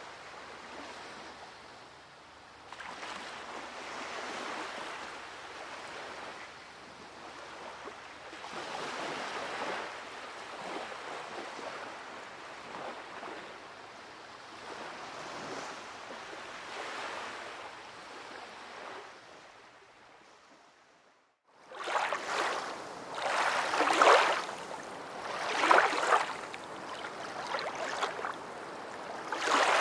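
Sea waves washing onto a shore, a recorded sound effect, swelling and ebbing in slow surges. About two-thirds of the way in it fades out, then comes back louder, with sharper wave crashes about every two seconds.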